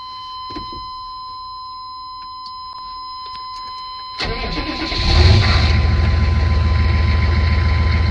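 1995 Chevrolet 6.5-litre turbo diesel V8 with a straight-pipe exhaust, cranking and firing about four seconds in, then idling loud and steady. A steady high tone sounds underneath throughout.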